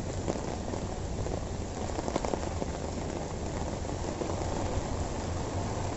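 Heavy rain falling steadily on a wet street, an even hiss with a few louder taps about two seconds in.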